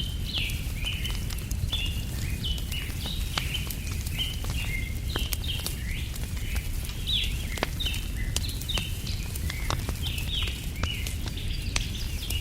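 Small birds chirping over and over in short, falling notes above the sharp snaps and pops of a crackling wood fire, with a steady low rumble underneath.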